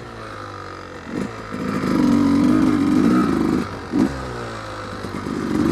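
1993 Yamaha YZ250's single-cylinder two-stroke engine. It runs low, is revved hard for about two seconds and drops back, gives a short blip, then revs hard again near the end.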